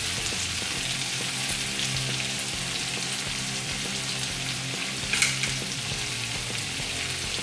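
Skewered chicken tikka pieces sizzling steadily in oil and butter in a kadhai over a high gas flame, as the water released by the chicken fries off. About five seconds in there is a brief louder scrape as a wooden spatula turns the skewers.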